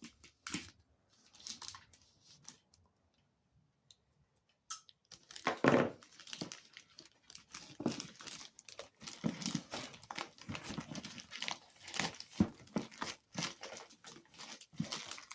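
Packaging being torn open and crinkled by hand as a shipping package is unwrapped. For the first five seconds there are only a few faint clicks and scrapes. Then the tearing and crinkling continue densely.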